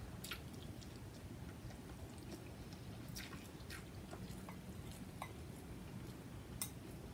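Quiet eating sounds: chewing of noodles with soft mouth clicks and a few sharper clicks scattered irregularly.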